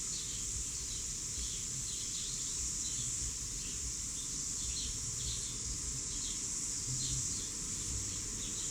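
Outdoor ambience: a steady high-pitched insect drone, with many short bird chirps scattered through it.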